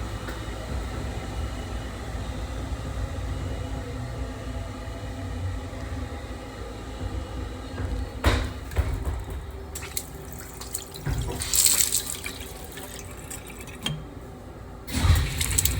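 Washbasin tap running water in short spells, heard over the steady low rumble of a running train.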